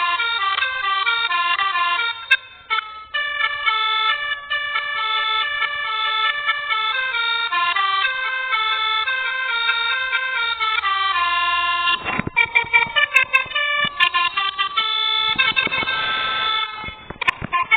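A musical horn playing a tune of held tones that step up and down in pitch. From about twelve seconds in, rapid clicks and crackles sound over it.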